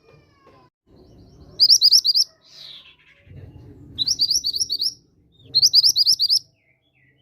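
Mantenan gunung bird singing three short bursts of rapid, evenly repeated high chirps, with a fainter falling call between the first two. This is a lure song used to provoke other mantenan into singing.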